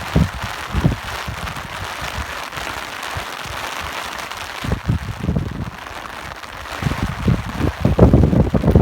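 Steady hiss of rain, with low gusts of wind buffeting the microphone that come and go and are heaviest near the end.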